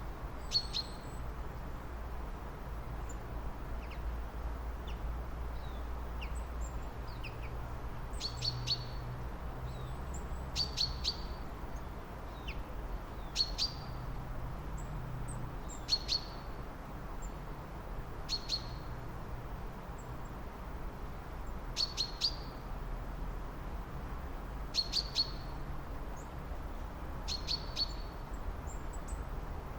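Birds chirping: short, sharp, high calls repeat every two to three seconds, often two or three in quick succession, over a steady low rumble.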